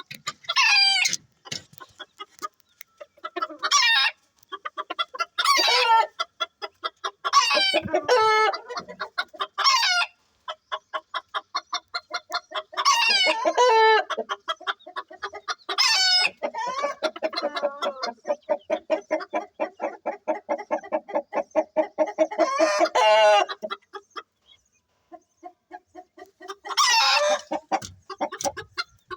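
Birds calling: loud, high, sweeping calls every few seconds, with long runs of short notes repeated in quick, even succession between them.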